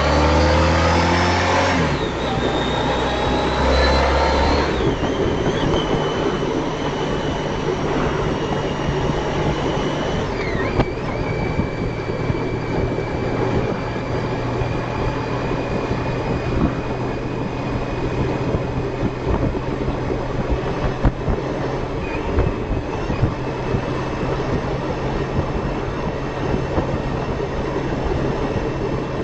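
Honda ST1300 Pan European's V4 engine accelerating with two rising runs that break off at upshifts in the first few seconds, then running steadily at cruise under wind and road noise.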